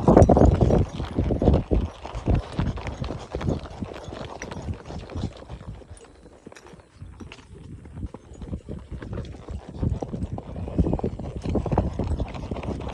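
Horse hoofbeats clip-clopping in an irregular run of strikes. They are loudest near the start, thin out around the middle and pick up again toward the end.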